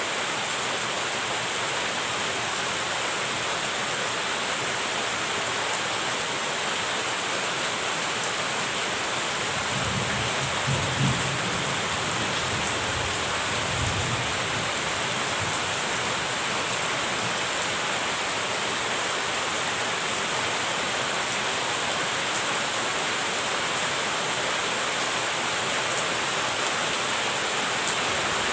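Steady heavy rain falling, an even hiss throughout. About ten seconds in, a low rumble of distant thunder rolls for a few seconds.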